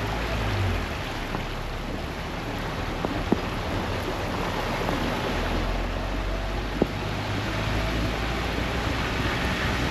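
Steady heavy rain, with a low vehicle rumble that swells near the start and again about seven seconds in, and a couple of sharp taps.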